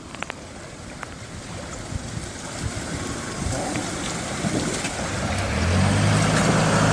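A truck pushing through deep floodwater toward the listener, the water rushing and surging around it and growing steadily louder. Its engine's low hum comes in near the end.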